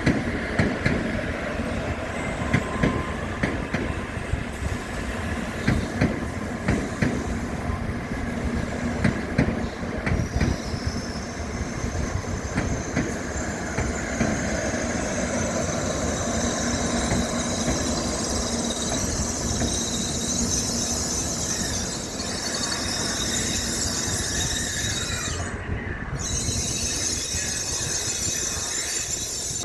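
A Tokaido Shinkansen train moving through the station. Its wheels clatter over the track for the first ten seconds or so, then a steady high-pitched wheel squeal and whine sets in and runs on.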